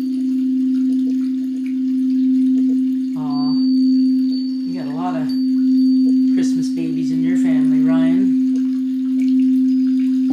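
A singing bowl sustaining one steady low tone, its loudness swelling and fading every second or two.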